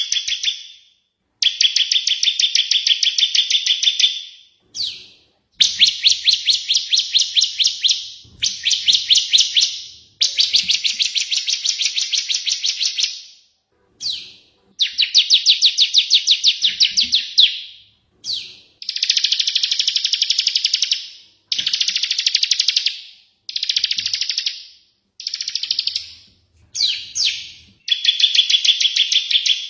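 Small songbird chattering in fast trills: bursts of rapid high chips, each lasting one to four seconds, separated by short gaps.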